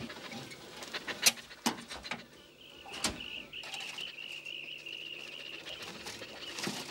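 A few sharp knocks, then a bird's steady, high-pitched, slightly wavering call held for about four seconds.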